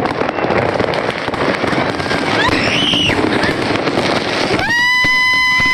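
Dense crackling and popping of many fireworks going off at once, with a firework whistle that rises and falls about two and a half seconds in. Near the end a steady high tone, like a horn, starts and holds; it is the loudest sound.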